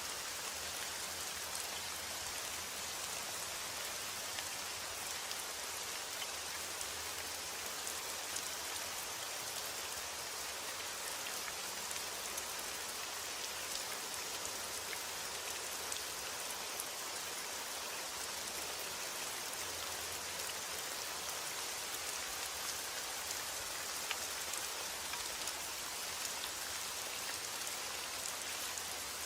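Steady rainfall with scattered individual drop ticks, an even hiss that does not change.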